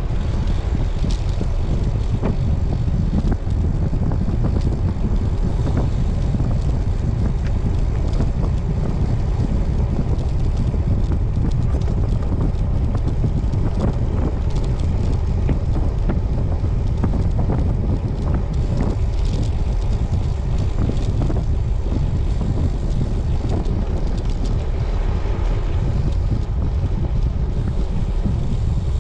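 Wind buffeting the microphone of a camera on a moving road bike, a steady low rumble with road and tyre noise underneath.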